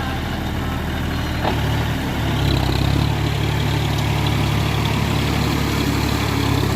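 John Deere 42 hp tractor's diesel engine running while it works a rotavator through the field. A little over two seconds in the engine note rises and gets louder as it takes on more throttle, then holds steady.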